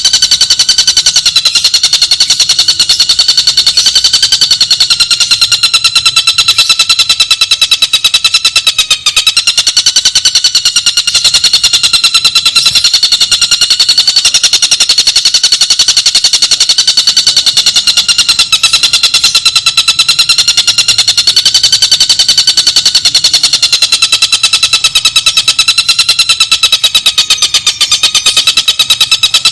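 A bird's very fast, unbroken rattling trill, looped as a training call for cage birds, its pitch wavering gently up and down without a pause.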